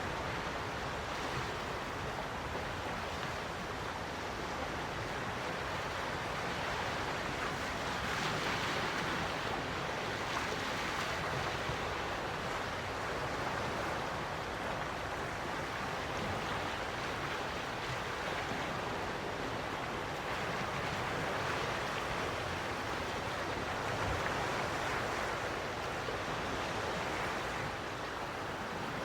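Gentle sea waves washing onto the shore: a steady wash that swells softly now and then as a wave comes in.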